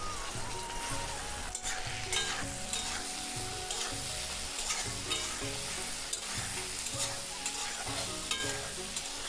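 Prawns sizzling steadily as they fry in hot oil in a metal kadai. A metal spatula scrapes and taps against the pan now and then as they are turned.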